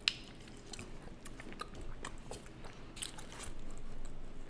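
Close-miked chewing and biting of chicken wings: scattered wet mouth clicks and smacks, with one sharp click just at the start.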